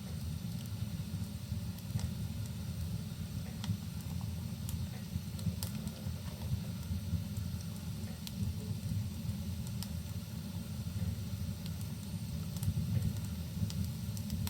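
Wood fire crackling, with scattered sharp pops and snaps over a steady low rumble and a soft hiss of rain.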